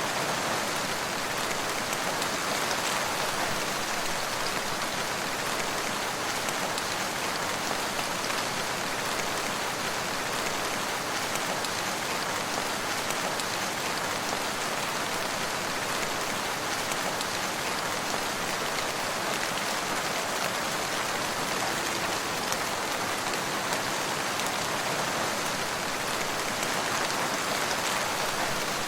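Steady rain falling on surfaces, an even patter of drops without breaks.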